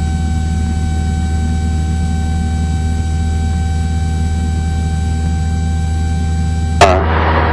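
Cessna 172's four-cylinder piston engine and propeller droning steadily at cruise power, heard through the cockpit intercom, with a thin steady whine above the drone. Near the end a brief loud burst cuts in over it.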